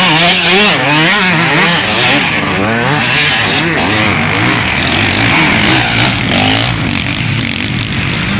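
Several motocross bikes racing, their engines revving up and down in quick swings as the riders work the throttle and shift gears, several pitches overlapping.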